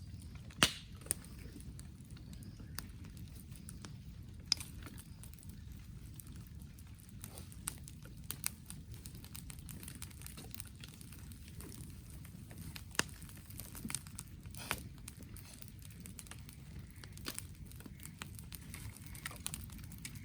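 Wood campfire crackling: irregular sharp pops and snaps over a low steady rumble, the loudest pop about a second in.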